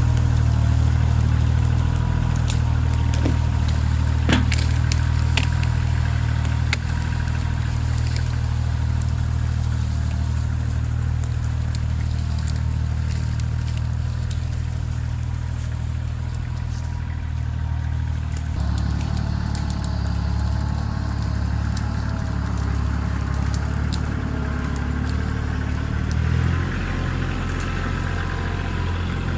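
Kioti CK2610 compact tractor's three-cylinder diesel engine running steadily, its note and load shifting a few times, with occasional knocks and clatter.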